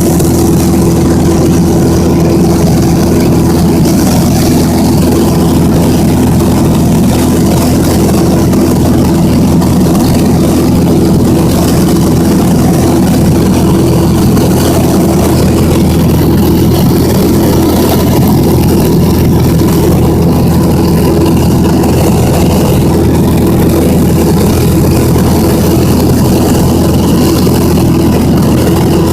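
Small propeller airplane's engine running at a steady speed, heard from inside the cabin: a loud, even sound with fixed low tones that hold without change.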